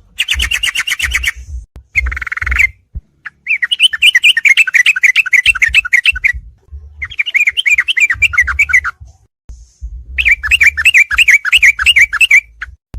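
Yellow-vented bulbul (trucukan) song: fast chattering runs of quick, repeated chirps in five bursts of one to three seconds, separated by short pauses, with a low rumble under the bursts.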